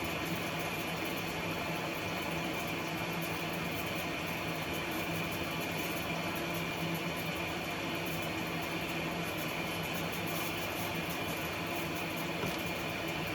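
A household appliance running steadily: an even mechanical hum with a faint high steady whine, unchanging throughout.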